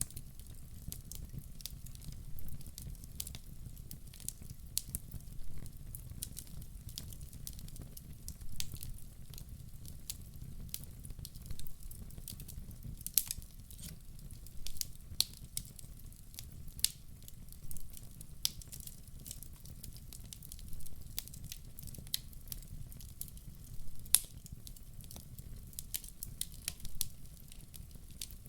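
Wood fire of burning logs crackling, with irregular sharp snaps several times a second and a few louder pops, over a steady low rumble of the flames.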